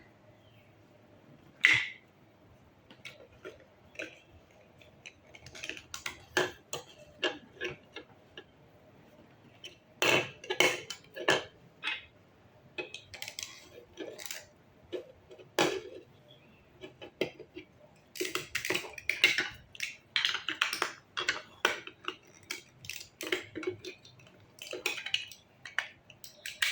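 Plastic building blocks being handled and fitted together: irregular sharp clicks, taps and clatters, busier about ten seconds in and again toward the end.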